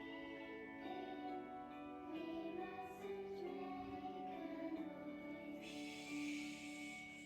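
A group of young children singing a song together to musical backing, moving through held notes, with a hissing sound near the end.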